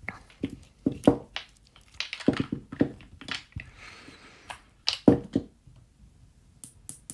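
Small gel polish bottles being handled and set down on a table: a run of short, irregular clicks and knocks, with a brief faint rustle in the middle.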